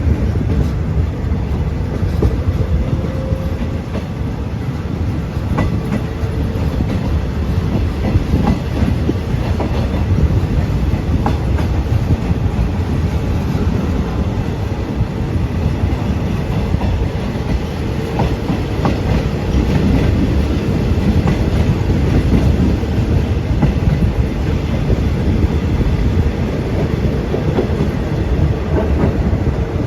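Passenger train running on the rails, a steady low rumble with wheels clicking over the rail joints.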